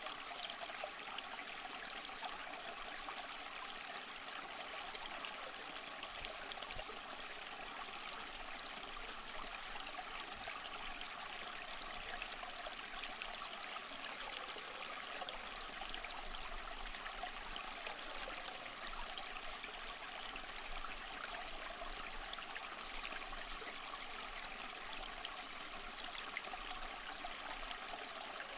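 A flowing stream: steady water running and trickling over rocks.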